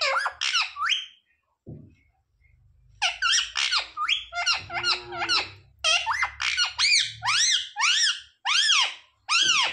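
Pet parrot giving a rapid series of high-pitched arching squawks and squeaks, about two a second, after a brief burst and a short pause near the start.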